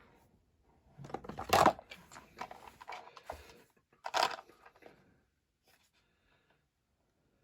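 Handling noises from taking apart a small diecast model: a few short scraping and crunching sounds, the loudest about one and a half seconds in and another about four seconds in, then quiet.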